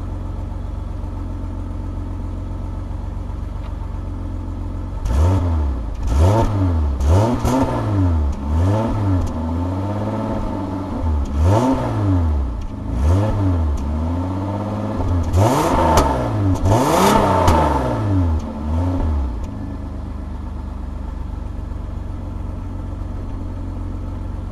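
Eagle Premier's engine idling, then revved about a dozen times in quick succession from about five seconds in, the pitch rising and falling with each blip, before settling back to a steady idle near the end. The engine is being run up after a cold start following two months of sitting, to burn out carbon and the ether sprayed in to start it.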